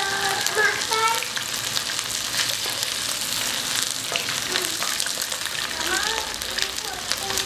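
Meatballs of minced meat wrapped around eggs sizzling in shallow hot oil in a nonstick pan, a steady crackle of fine pops, with soft contact sounds as a silicone spatula nudges and turns them.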